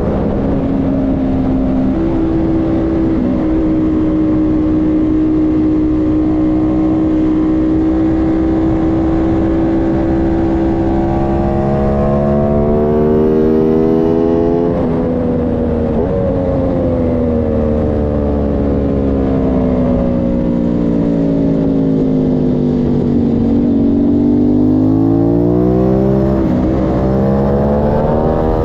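Aprilia Tuono 660 Factory's parallel-twin engine at speed on track. The pitch holds high for several seconds, then climbs and drops sharply at a gear change about halfway through. It sinks as the bike slows, then climbs again near the end.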